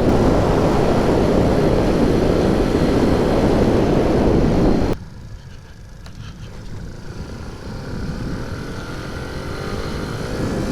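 Heavy wind rush on the microphone from riding at speed, which cuts off abruptly about halfway through. Then a Honda C90's small single-cylinder engine is heard, its pitch rising steadily as the bike accelerates.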